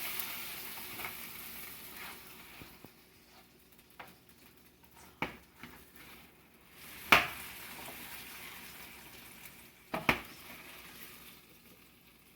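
Hominy kernels sizzling on a hot cookie sheet fresh from the oven, the hiss fading and then rising again as they are turned. Sharp clicks of a utensil against the sheet come three times, the loudest about seven seconds in.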